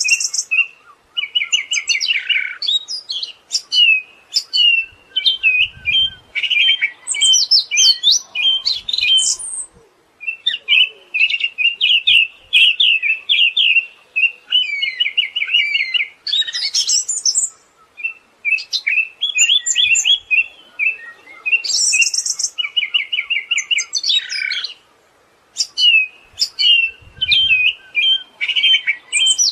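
Siberian thrush singing a long run of varied phrases: rapid trills and chirps, with brief pauses about ten, seventeen and twenty-five seconds in.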